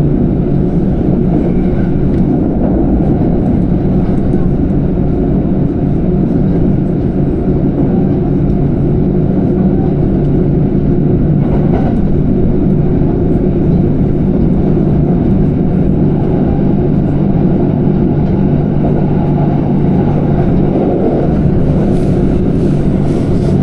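Passenger train running along the line: a steady, unbroken low rumble.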